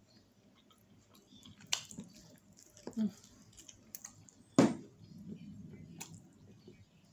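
A person eating saucy fried chicken wings: wet chewing and lip-smacking, with a few sharp smacks, the loudest a little past halfway. A brief closed-mouth 'mm' comes about three seconds in.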